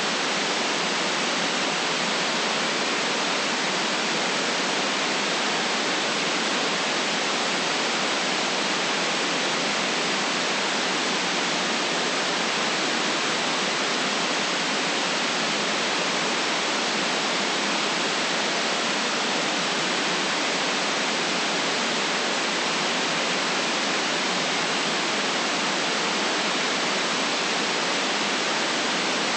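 Steady, unchanging electronic white-noise hiss, even from low to high pitch with the deepest bass cut away.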